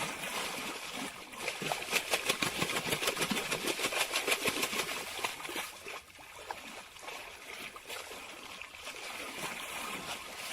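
Water splashing and trickling, busiest in the first half and fainter after about six seconds in.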